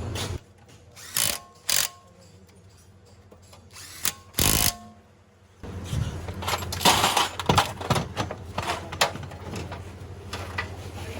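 Workshop tool noise during car gearbox work: a few sharp metallic clicks, then from about halfway in a busy stretch of rattling, ratcheting and power-tool sounds over a low hum.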